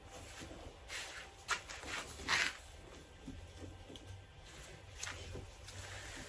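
Soft rustling and brushing of feathers as a racing pigeon is handled and its wing spread, in a few short swishes, the loudest about two and a half seconds in.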